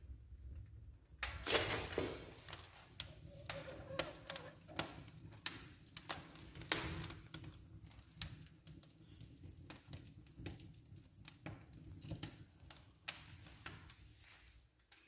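Irregular sharp taps and knocks, a few louder than the rest, over a low steady hum.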